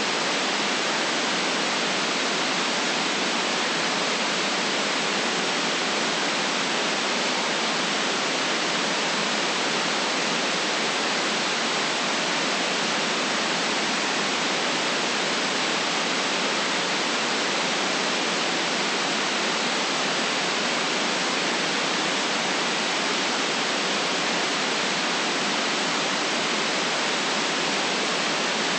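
Steady white noise: an even, unchanging hiss with no deep rumble and nothing on top.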